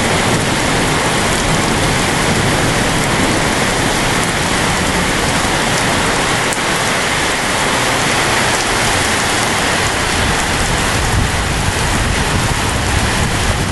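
Rain falling steadily in a thunderstorm, a loud even hiss.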